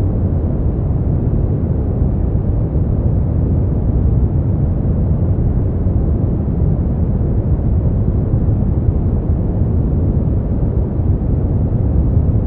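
Brown noise: a steady, deep rumbling hiss, strongest in the bass and thinning out toward the treble, without any change.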